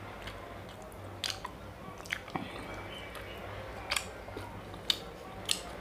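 Close chewing of chocobar ice cream (vanilla ice cream in a chocolate shell), with about six short sharp crackles spread through as the chocolate coating breaks.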